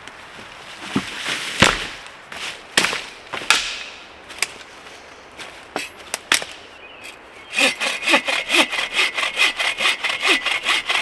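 Sharp cracks and snaps of wood, then from about seven and a half seconds in a hand saw cutting through wood in fast, even strokes.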